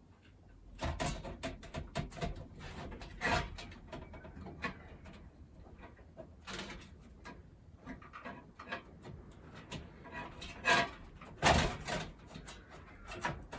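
Irregular clicks, taps and knocks of a motherboard being shifted and seated on its standoffs inside a metal PC case, with a few louder knocks near the end.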